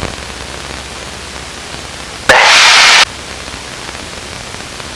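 A loud burst of aircraft radio static, lasting under a second and starting and stopping abruptly, about two seconds in, over a steady low background noise.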